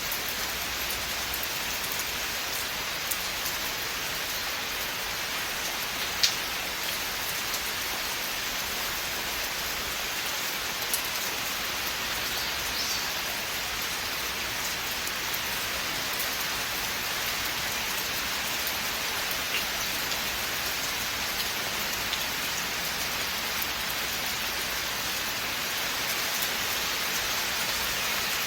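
Steady rain falling in a forest, an even hiss with scattered individual drops ticking close by, one sharper drop about six seconds in.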